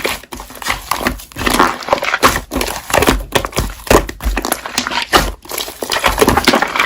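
Hands squishing and kneading slime in irregular bursts a few times a second, with crackling, crinkly pops.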